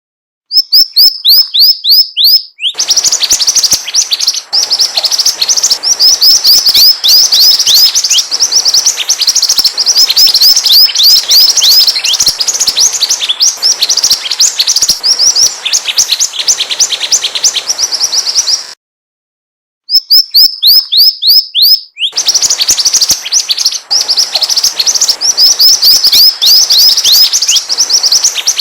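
A mantenan bird's lure song: a fast, loud run of high, downward-sliding chirps. It breaks off for about a second roughly two-thirds of the way through, then starts over in the same pattern, as a looped recording.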